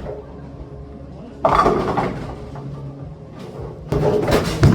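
Bowling alley clatter: a sudden burst of knocks about a second and a half in that dies away, and a second cluster of sharp knocks near the end, over a steady low hum.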